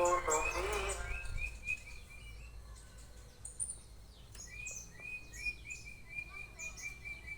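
Canary singing: long runs of short, rapidly repeated chirping notes with higher, thinner chirps over them. Music fades out in the first second.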